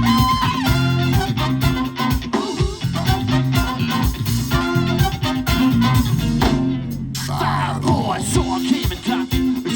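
Live cover band playing an instrumental stretch of the song, with a steady beat and bass line and no singing. There is a brief break about two-thirds of the way through.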